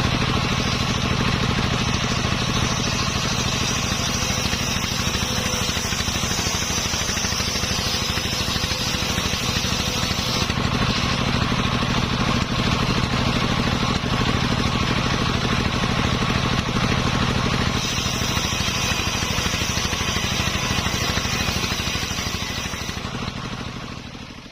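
Engine of a homemade circular sawmill running steadily, fading out near the end.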